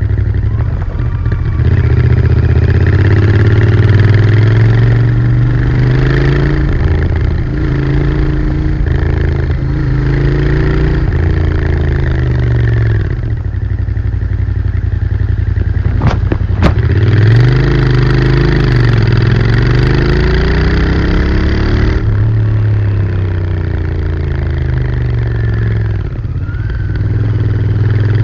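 Royal Enfield Interceptor 650's 648 cc parallel-twin engine and exhaust under way, the revs climbing and dropping again and again as the throttle is worked. Two sharp clicks come about halfway through.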